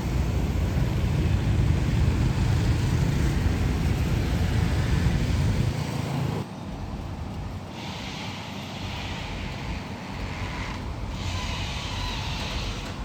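Twin-turbo V6 engine of a 2022 Toyota Land Cruiser VXR running, a deep low rumble that drops off suddenly about six and a half seconds in, leaving a quieter hiss.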